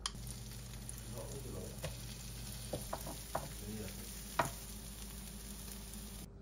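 Bell pepper rings filled with egg batter sizzling steadily in oil in a nonstick frying pan. A few sharp clicks and taps of a utensil against the pan come as the slices are turned over, the loudest about four and a half seconds in.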